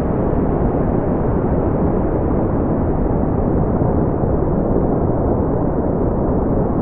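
Brown noise: a steady, deep rushing hiss, strongest in the bass and thinning out toward the treble, with no changes.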